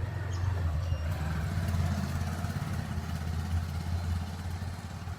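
A motor vehicle's engine running, a steady low hum that swells about a second in and then slowly fades, like a vehicle going past.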